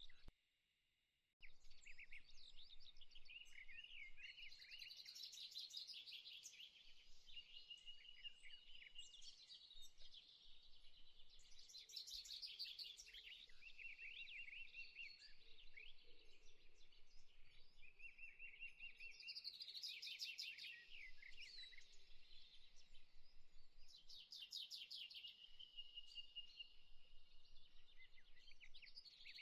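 Faint birdsong: several birds chirping and trilling in quick repeated phrases over a soft hiss. The sound drops out completely for about a second near the start.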